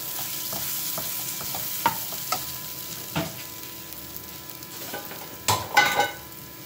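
Ground moong dal paste frying in ghee in a metal kadhai, sizzling, while a steel spatula scrapes and clinks against the pan in the first few seconds. A few louder clatters come about five and a half seconds in.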